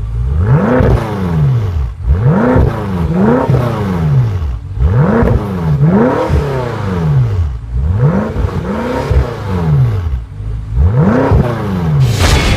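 BMW M5 F10's twin-turbo V8 revved in a series of about eight quick blips, each rising and falling in pitch, some in close pairs.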